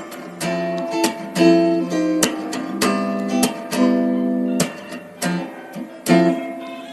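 Background music: an acoustic guitar picking and strumming a steady run of chords.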